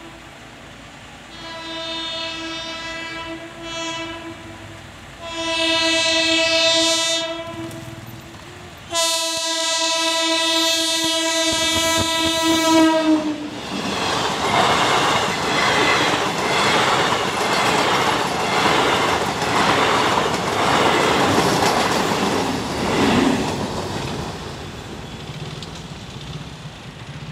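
Indian passenger train at a level crossing. It sounds its horn four times, two short-to-medium blasts and a brief one, then a long blast of about four seconds. The coaches then pass close by with a loud, rhythmic clickety-clack of wheels over the rail joints, which fades near the end.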